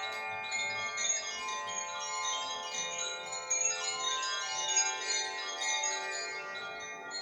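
Koshi chimes ringing: silver rods struck by the inner clapper inside the bamboo body, several high, overlapping tones sounding at once and ringing on, with soft strikes scattered throughout.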